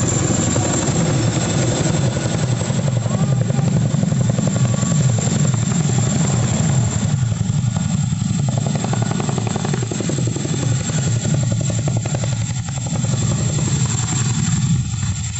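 Chinook tandem-rotor helicopter running, a loud, fast, steady rotor beat with a steady high whine over it.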